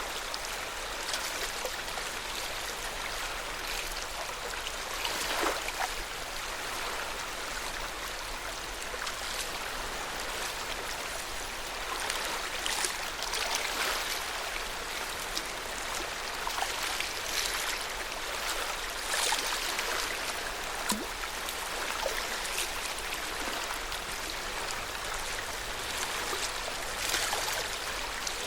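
Lake water washing steadily, with small irregular splashes and trickles rising out of it now and then.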